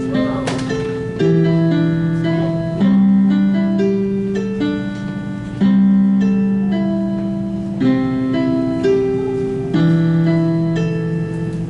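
A solo instrumental piece played slowly. Sustained chords with a low note change every one to three seconds, and a simple melody of single notes moves above them.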